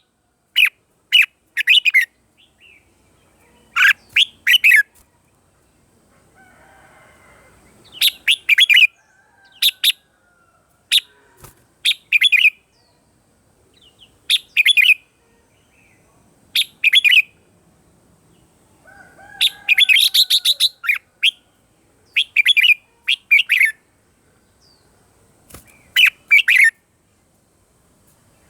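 Red-whiskered bulbul singing: short, bright phrases of a few quick notes, repeated every couple of seconds with pauses in between.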